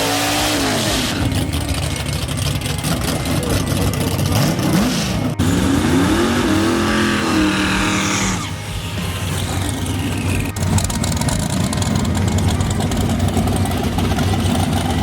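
Drag racing car engines running loud; about four seconds in, an engine revs up in repeated rising sweeps, like a car accelerating hard through the gears, then the sound settles to a steady engine drone.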